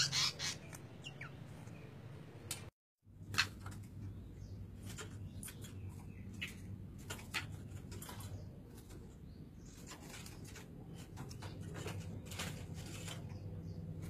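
Caged birds chirping, with many short, sharp calls over a steady low hum. The sound cuts out briefly about three seconds in.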